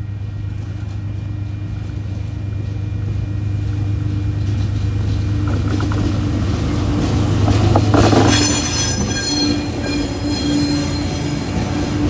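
TasRail freight train hauled by TR-class diesel-electric locomotives, the engines' low drone growing louder as it nears and passes. From about eight seconds in, the passing wagons' wheels add a high-pitched squeal.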